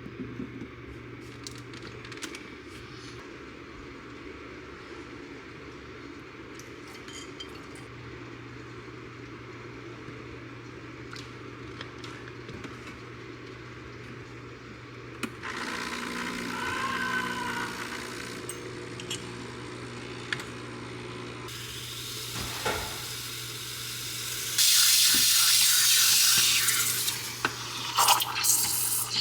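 Water running from a kitchen tap in spells over a steady low hum, loudest for a couple of seconds near the end, followed by a few sharp clinks.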